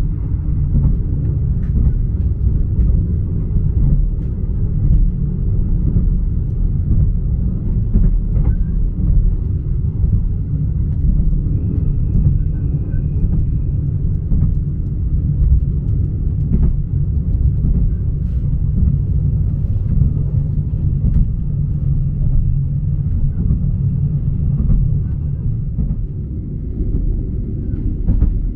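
Special Express No. 9 sleeper train running at about 90 km/h, heard from inside a closed cabin: a steady low rumble of wheels on the rails, with a few faint clicks and knocks.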